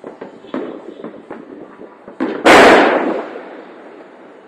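Fireworks going off: a string of sharp pops and crackles, then one much louder bang about two and a half seconds in that dies away over about a second.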